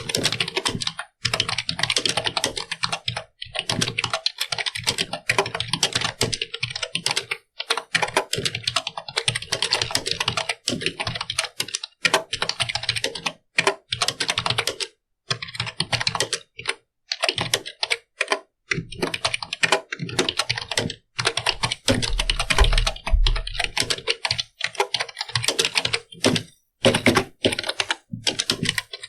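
Computer keyboard being typed on quickly and continuously, the keystrokes clattering in runs broken by short pauses.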